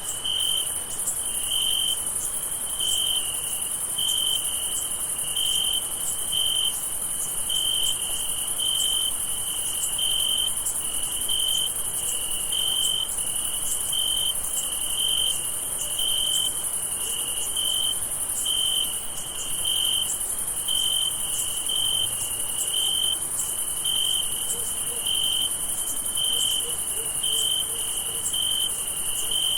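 Crickets chirping at night: a lower-pitched chirp repeats a little more than once a second over a continuous high-pitched insect trill.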